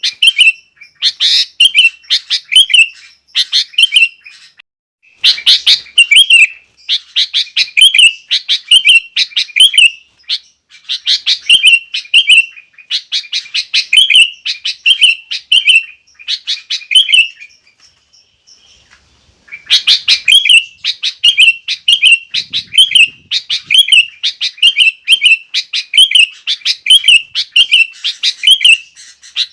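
Sooty-headed bulbul (kutilang) singing energetically, a quick run of repeated chirping phrases at roughly two a second, broken by a short pause a little past halfway.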